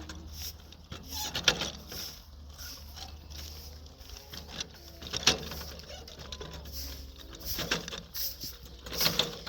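Scattered sharp knocks and clatter, four or so strikes a couple of seconds apart, over a low steady hum that fades out near the end.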